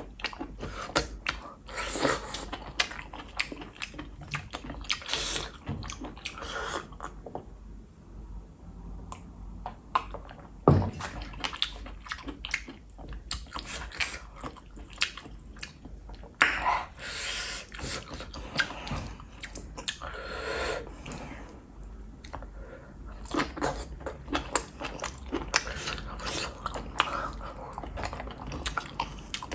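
Close-miked chewing of saucy cooked enoki and oyster mushrooms, with many short, sharp mouth clicks. There is a quieter stretch about a third of the way in, broken by one loud click.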